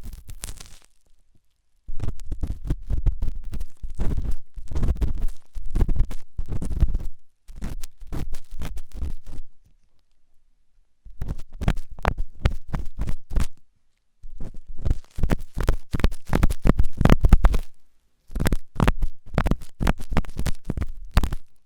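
Intense ASMR ear cleaning: an ear-cleaning tool scratching hard and fast at an ear close to the microphone, in runs of rapid strokes with a heavy low rubbing. The runs are broken by a few short pauses.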